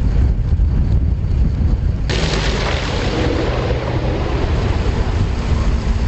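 Strong wind buffeting the microphone with a heavy low rumble, and a sudden louder rush of noise about two seconds in that slowly fades.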